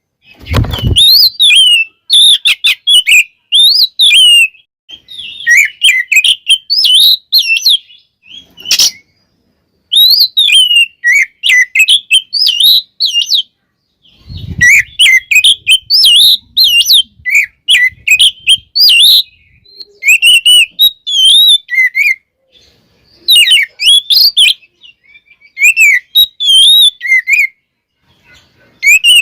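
Oriental magpie-robin (kacer) singing loud, fast runs of varied whistled and chattering phrases in bursts, broken by short pauses. A dull low thump comes about half a second in and another about halfway through.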